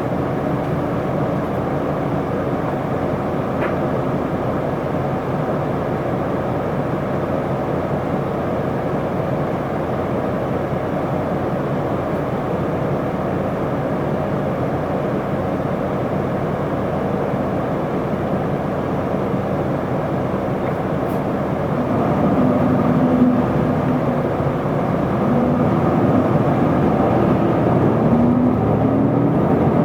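Isuzu Erga city bus running: steady diesel engine and road noise. About two-thirds of the way through the engine note climbs in rising sweeps as the bus accelerates.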